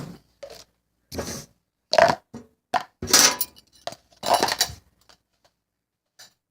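Bowls, cups and spoons being picked up and set down: a string of short knocks, clinks and clatters over about five seconds, then it goes quiet.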